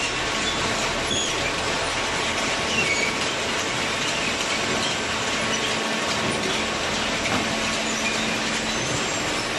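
Cardboard shredding and baling machinery running: a loud, steady mechanical clatter with brief high squeaks now and then.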